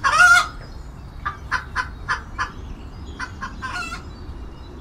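Chicken clucking: a loud squawk at the start, then a run of short clucks, and another squawk a little before the end.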